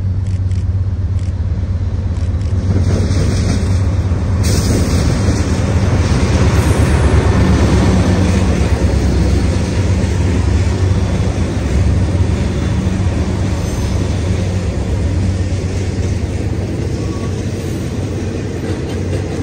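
Three GE Dash 8-40C diesel locomotives running past under power, their engines loudest about seven seconds in. The loaded ore hopper cars then roll by behind them with a steady rumble of wheels on rail.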